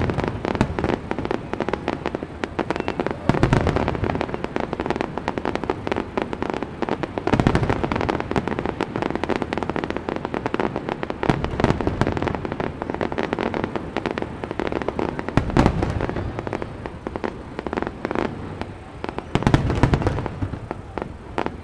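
Aerial fireworks display: a dense, continuous barrage of crackling bursts, with heavier booms standing out about every four seconds.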